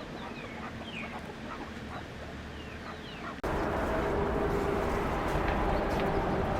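Farm poultry calling with short falling chirps. About halfway through, the sound cuts abruptly to a louder, steady noise with a low hum underneath.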